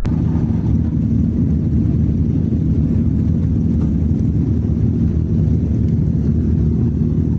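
Steady low rumble of a motor vehicle's engine running on the road.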